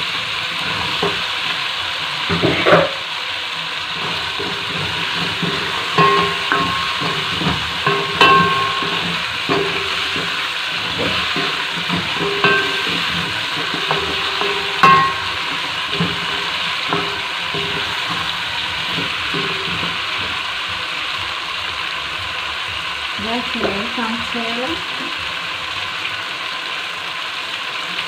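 Beef and potato chunks sizzling in oil in a non-stick frying pan while a wooden spoon stirs them. The spoon knocks and scrapes against the pan several times in the first half.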